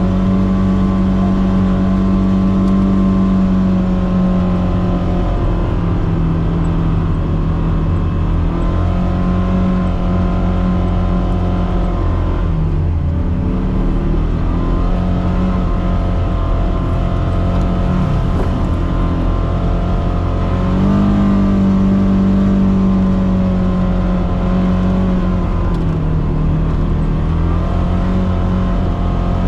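Engine of a Polaris Xpedition four-seat side-by-side running under way on a trail, its pitch rising and falling as the throttle is eased off and opened again, with clear dips about twelve seconds in and near twenty seconds.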